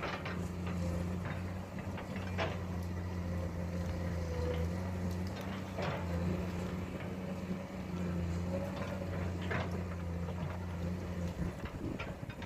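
Heavy diesel engine of earthmoving machinery running steadily, with a few scattered metallic clanks and knocks. The engine hum drops away near the end.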